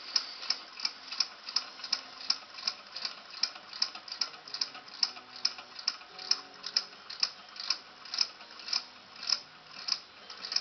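Model Stirling engine running, its mechanism clicking in an even rhythm that slows from about three clicks a second to under two a second.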